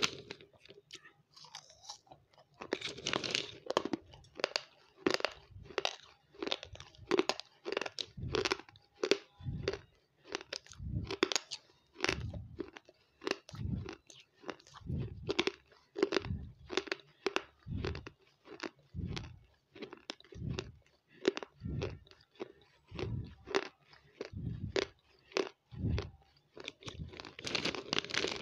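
Close-miked crunching and chewing of dry white crumbles, a long regular series of crisp crunches about one every second or so.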